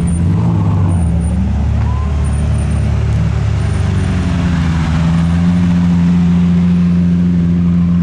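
Car engine running steadily, with its pitch shifting a little a couple of times as the revs change.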